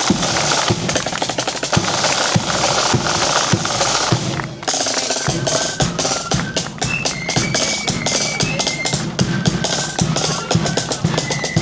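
Marching flute band: snare drums rolling over steady bass drum beats, then high flute melody coming in over the drums about four and a half seconds in.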